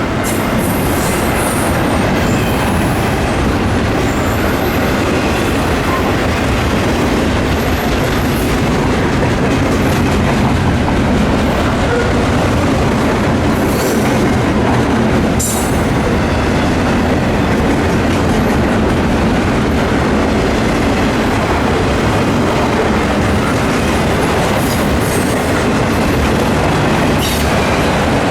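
A train's cars rolling past steadily, wheels clacking over the rail joints, with several brief high wheel squeals.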